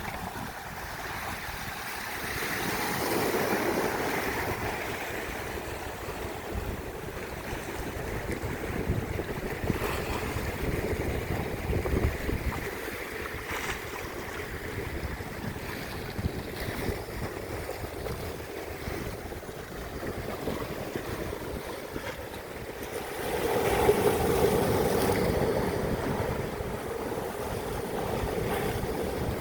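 Sea waves washing in and breaking, with wind buffeting the microphone; the surf swells louder twice, a few seconds in and again near the end.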